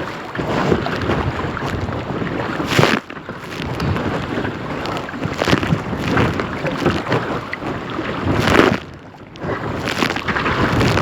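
Strong wind buffeting the microphone over water splashing around a kayak being paddled, the noise swelling in gusts every few seconds.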